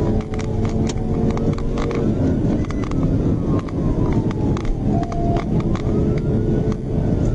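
Police siren wailing in slow rise-and-fall sweeps about every three to four seconds, over the patrol car's engine and road noise during a high-speed pursuit, heard from inside the car. Scattered sharp clicks run through it.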